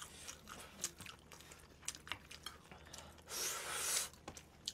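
Close-miked chewing of seaweed soaked in chicken sauce: wet mouth clicks and smacks, with a louder rustling hiss lasting under a second near the end.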